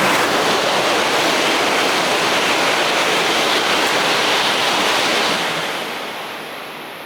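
Tohoku Shinkansen train passing through the station at speed: a loud, steady rush of air and wheel noise that dies away after about five seconds.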